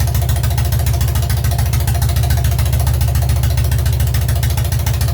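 Freshly rebuilt Soviet K-750 sidecar motorcycle engine, a side-valve flat twin, running steadily with a fast, even pulse. It is running cleanly, "impeccable".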